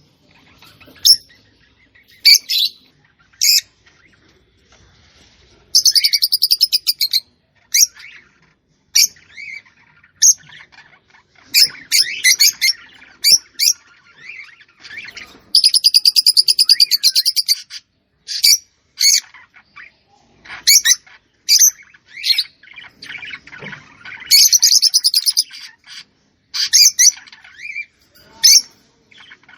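Small songbird chirping and singing: bursts of short high chirps, broken about every nine seconds by a long, fast trill lasting a second or two.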